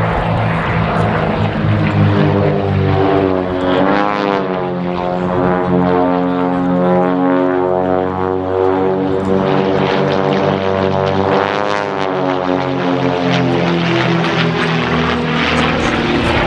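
Pitts Special aerobatic biplanes' Lycoming IO-540 engines and propellers running in display flight, the engine note dipping and rising in pitch twice as the aircraft manoeuvre.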